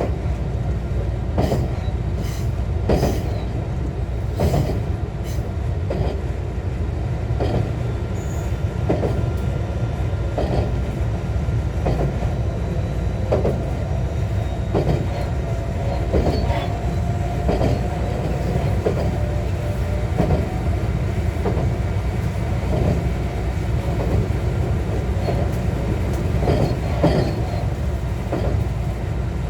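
JR West 125 series electric railcar running along the line, with a steady rumble and wheels clicking over rail joints about once every second or so. A faint steady whine rises out of the noise in the middle stretch.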